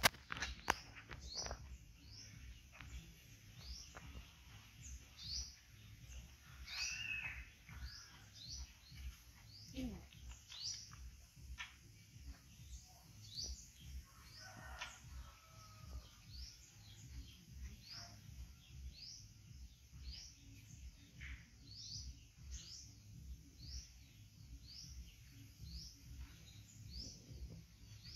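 A small bird chirping over and over, short high downward-sliding chirps about once a second, over a low steady rumble.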